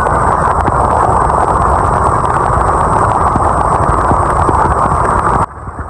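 Loud, steady roar of a fast rigid inflatable boat with three outboard engines running at speed, mixed with wind rushing over the microphone. It cuts off suddenly near the end to a much quieter steady background.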